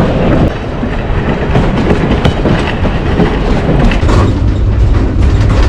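Moving passenger train: steel wheels rumbling and clicking over the rail joints, with a steady low hum that grows stronger about four seconds in.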